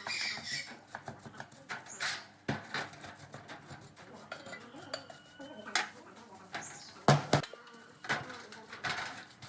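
Metal parts and tools clinking and knocking in irregular hand work, with a few short metallic rings; the loudest is a double knock about seven seconds in.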